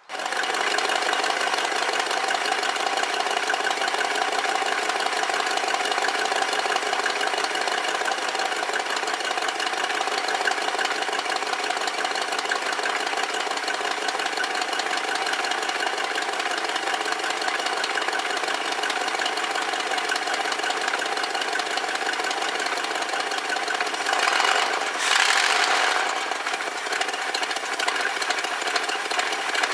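The 460 V8 of a 1969 Lincoln Mark III idling steadily while still a little cold, after its new coil and a tightened connection have got it running again; it gets briefly louder about 24 seconds in.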